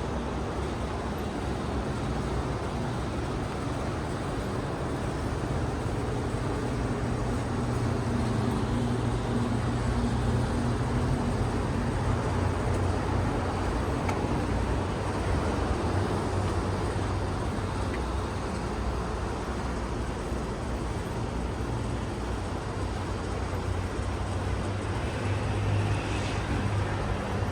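Steady road-traffic noise with a low engine hum, rising and falling slightly as vehicles pass.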